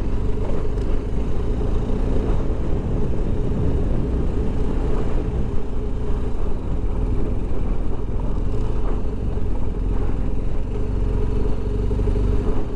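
BMW R 1250 GS adventure motorcycle's boxer-twin engine running steadily under way on a sandy road, with a steady low rumble.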